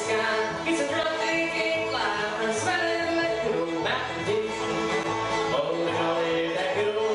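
Live bluegrass band playing a song, with banjo and fiddle over a double bass walking a steady beat.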